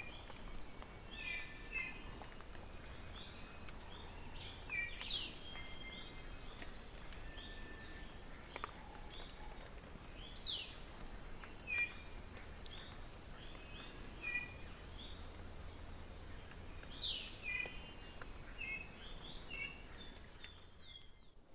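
Small birds calling over and over: short high chirps and quick falling whistles, one every second or two, over a faint steady hiss. The calls stop shortly before the end.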